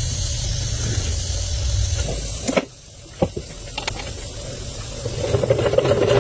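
A tractor engine running steadily, cutting off about two and a half seconds in. A few sharp clicks follow, then a new engine-like buzz builds near the end.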